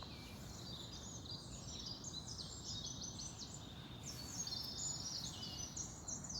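Several songbirds singing at once, dense overlapping chirps and trills, over a steady low rumble of background noise.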